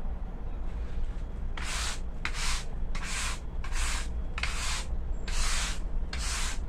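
Rhythmic rubbing or scraping strokes, about one and a half a second, beginning about a second and a half in, over a faint steady low hum.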